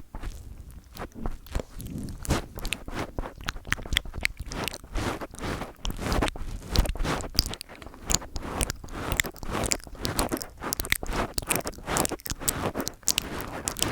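Fingertips touching, tapping and scratching directly on a microphone, a close, dense run of irregular crackling taps and scrapes.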